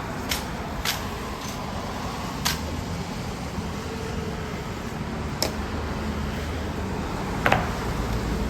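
Steady low outdoor rumble with sharp clicks or taps at irregular intervals, about one every one to three seconds.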